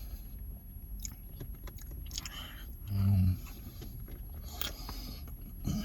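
A person chewing and eating oxtail poutine, with small clicks and scrapes of utensil and container. A brief low voiced hum comes about three seconds in.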